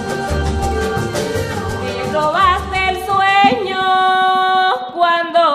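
Colombian folk music: a drum and shaker rhythm, joined about two seconds in by a solo voice singing long, wavering held notes.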